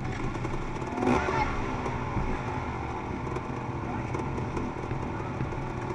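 Dirt bike engines running on a race course. About a second in, one bike goes by close, its engine pitch falling as it passes.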